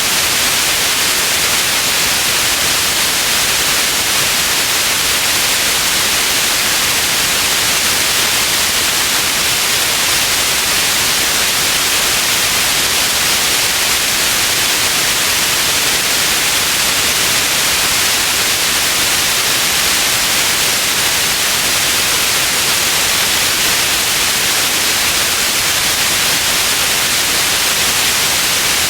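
Steady synthetic white noise, an even, unchanging hiss.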